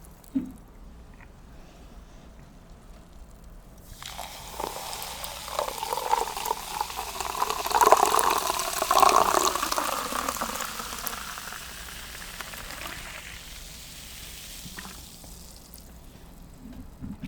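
Sparkling water poured into a glass, with a fizzing hiss that builds from about four seconds in and tapers off several seconds later. A sharp click comes just before it, near the start.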